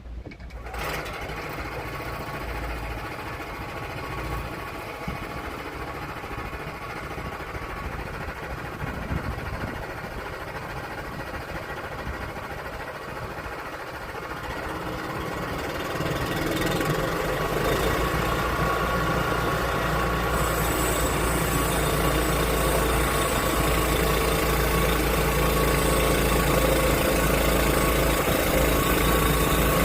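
Portable sawmill's engine running steadily, growing louder about 16 seconds in and again a few seconds later.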